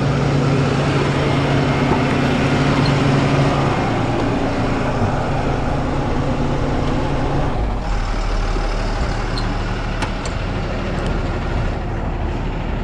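Rollback truck's diesel engine running with the PTO engaged, a steady hum. About four seconds in the hum drops away as the PTO is switched off, leaving the engine idling with a low rumble.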